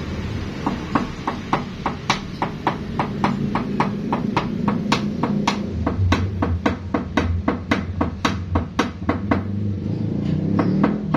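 A hammer tapping out a dent in metal, a steady run of sharp blows about three to four a second, over a low steady hum.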